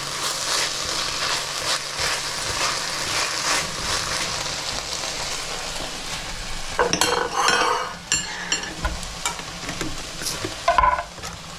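Onions, garlic and paprika frying in lard in a pan, a steady sizzle. A utensil stirs and scrapes the pan about two-thirds of the way through and again near the end.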